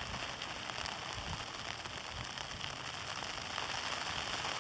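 Heavy sleet and graupel pellets coming down, a dense steady hiss made of many small ticks as the pellets strike surfaces.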